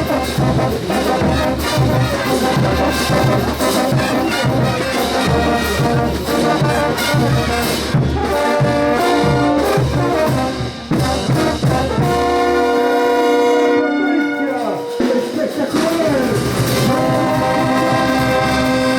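Bolivian brass band playing ch'uta dance music: trumpets and trombones over a steady drum beat. About twelve seconds in the drums stop and the brass holds long chords.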